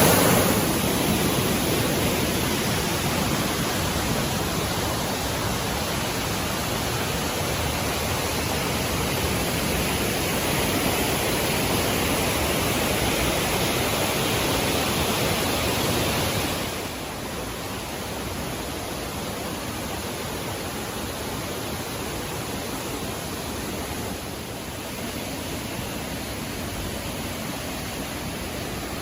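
Mountain valley stream rushing steadily over rocks. A little past halfway it suddenly becomes quieter and stays so.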